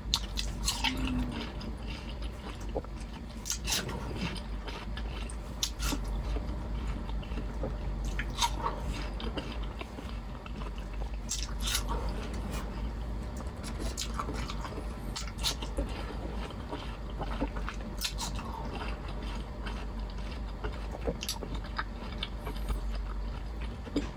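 Close-miked eating sounds: wet chewing and lip smacks with scattered sharp clicks, over a steady low hum.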